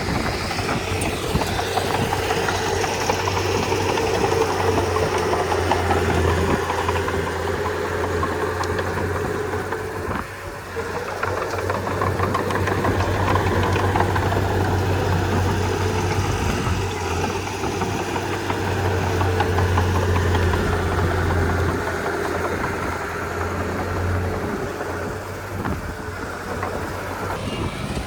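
Komatsu D31P bulldozer's diesel engine running steadily under load, with a brief dip in loudness about ten seconds in.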